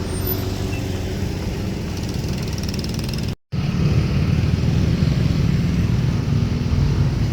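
Steady engine noise with a low hum, as of motor vehicles or heavy machinery running nearby. It cuts out for an instant about three and a half seconds in and returns louder.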